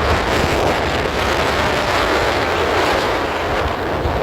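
Steady rush of wind on the microphone and road noise from a moving vehicle, with a low rumble underneath.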